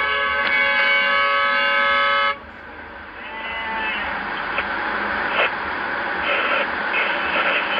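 A car horn blasted steadily for about two seconds, cutting off abruptly, followed by road noise with fainter horn tones further off.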